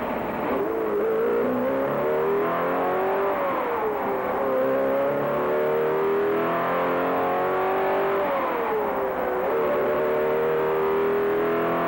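Ford 427 V8 racing engine running hard on a dynamometer under program control. Its pitch climbs, drops sharply about four seconds in and climbs again, then falls once more and levels off near the end, as the automated shifter changes gears on a simulated Le Mans lap.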